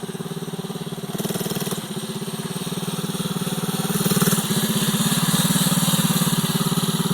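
Motorcycle engine running with a rapid, even putter, growing louder about four seconds in as it nears or opens up.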